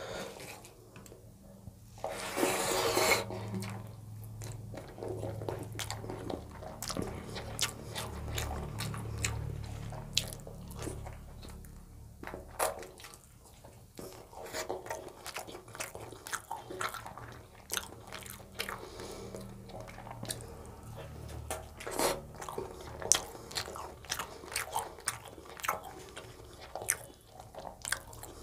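Close-miked eating sounds of chicken curry and rice: chewing, biting and wet mouth clicks and smacks coming irregularly throughout, with a louder noisy burst about two seconds in.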